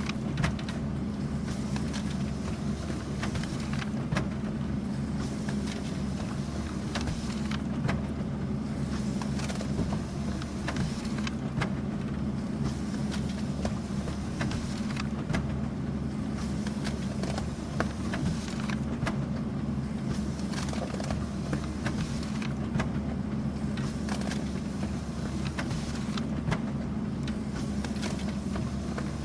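Office printer running steadily: a constant low mechanical hum with irregular clicks and taps from the paper-feed mechanism.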